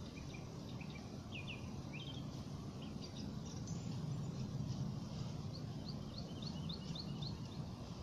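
Small birds chirping in short, thin calls, with a run of about seven quick rising chirps in the second half, over a steady low background rumble.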